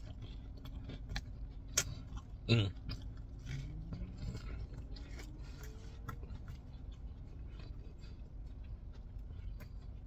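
A person chewing a mouthful of sandwich (Texas toast, fried chicken tender, fries and sauce), with small wet mouth clicks throughout and a short hum of the voice about two and a half seconds in.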